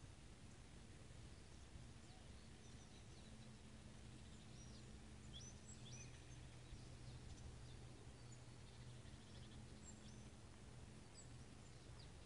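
Faint, scattered bird chirps and short calls over a quiet steady low hum and hiss.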